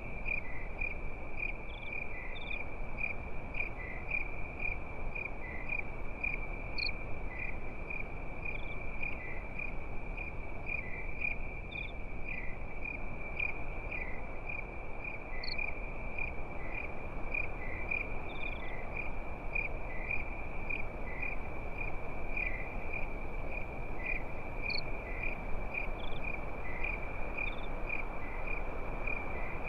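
Crickets chirping at night in steady, evenly repeated pulses, with a few higher chirps from other insects here and there, over a steady low hiss.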